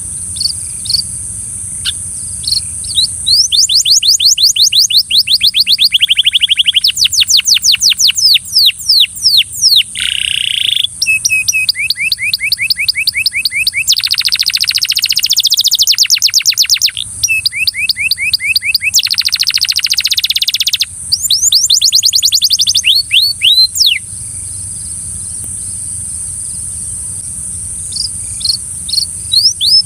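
Belgian canary singing a series of rapid trills, each phrase a fast run of repeated notes at its own pitch and speed, with a pause in the song of a few seconds near the end. A steady high-pitched hiss runs underneath.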